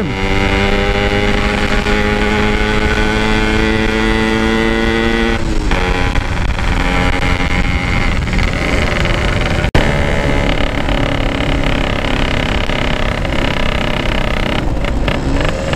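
Yamaha RX-King two-stroke single-cylinder motorcycle engine pulling steadily under way, its pitch easing down slightly, then breaking and picking up again about five and a half seconds in, as at a gear change. Wind rushes over the helmet microphone, and the sound cuts out for an instant about ten seconds in.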